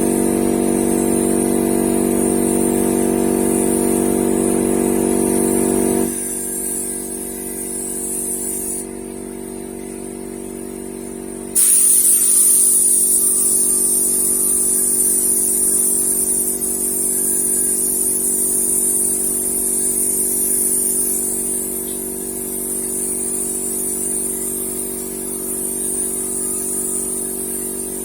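A paint spray gun hissing as it is used on a car, with a motor humming steadily underneath, most likely the air compressor feeding the gun. The hum is louder for the first six seconds, and the hiss gets suddenly louder about twelve seconds in.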